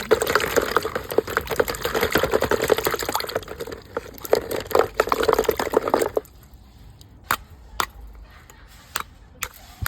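Liquid splashing or running, a dense crackly noise that stops suddenly about six seconds in, followed by a few isolated sharp clicks.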